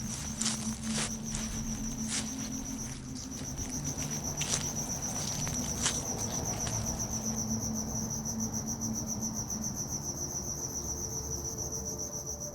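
An insect's high, rapidly pulsing trill, steady throughout, over a low hum, with scattered rustling clicks in the first half.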